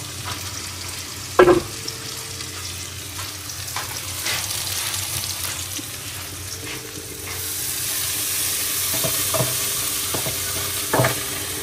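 Onions and ginger-garlic paste sizzling as they fry in a wok, stirred with a wooden spoon. The sizzle grows louder about halfway through. There is one sharp knock about a second and a half in.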